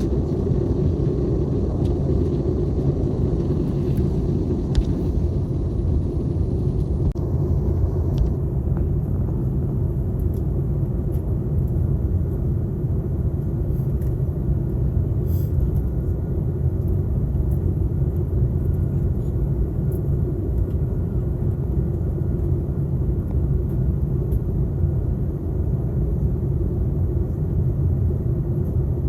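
Steady low rumble of cabin noise inside an Airbus A321neo airliner in flight on its descent, with a faint higher hiss that drops back about seven seconds in.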